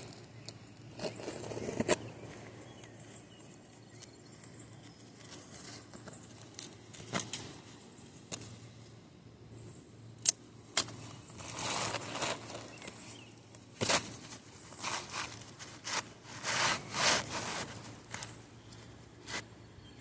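Asphalt shingles being handled on a roof: intermittent scraping and rustling, busiest in the second half, with a few sharp clicks.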